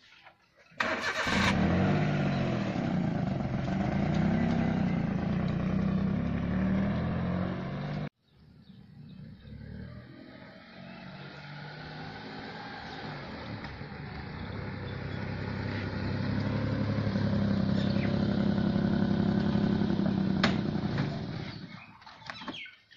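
A Maruti Suzuki Alto's small petrol engine starts with a short burst of cranking about a second in, then runs and revs as the car pulls away. After a sudden cut about eight seconds in, the same car is heard approaching, its engine growing steadily louder. The engine dies away near the end, with a few clicks from the car door.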